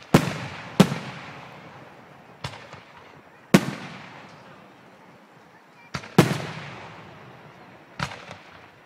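Aerial fireworks shells bursting overhead: about seven sharp booms, each trailing off in a long rumbling decay. The loudest come near the start, about three and a half seconds in, and about six seconds in.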